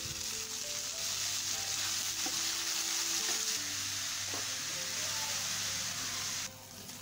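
Chopped long beans sizzling in hot coconut oil in a frying pan, stirred with a spatula, with a few light scrapes. The sizzle drops and becomes muffled near the end as a glass lid goes on the pan.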